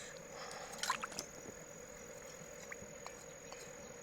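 Faint wet handling sounds: a short squelch or splash just under a second in, then a few light scattered clicks, over a faint steady hum.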